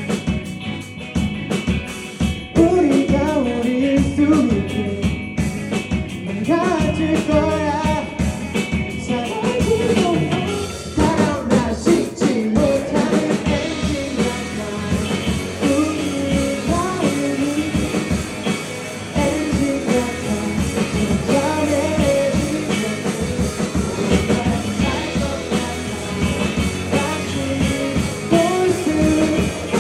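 Rock band playing the song live, with guitar and drums under a melody line.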